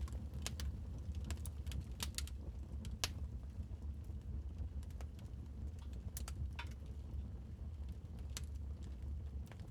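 Wood fire crackling in a fireplace: irregular sharp pops and snaps over a steady low rumble of the burning fire, the loudest pop about three seconds in.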